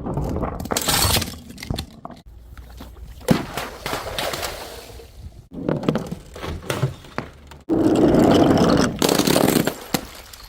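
Glass bottles smashing and shattering, several breaks one after another with clinking and scraping of broken glass between them; the longest, loudest crash comes about eight seconds in.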